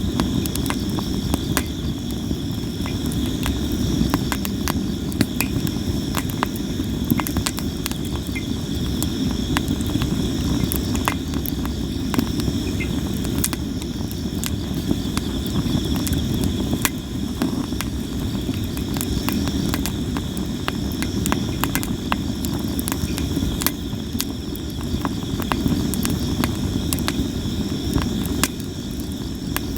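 Campfire of sawara cypress wood crackling and popping constantly, with frequent sharp snaps over a steady low rush. Crickets chirp steadily in the background.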